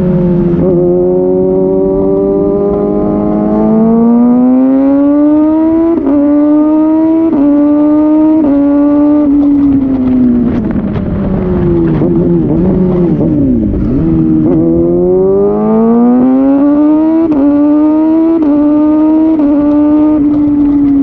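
Kawasaki Ninja ZX-6R inline-four engine through an Austin Racing slip-on exhaust, accelerating hard through several quick upshifts. About halfway it backs off, with pops on the overrun as the revs fall. It then pulls through the gears again near the end.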